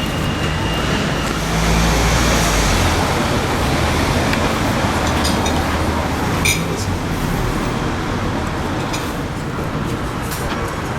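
Road traffic: vehicle engines and tyre noise running steadily, with a louder low engine sound about two seconds in and a few brief clicks past the middle.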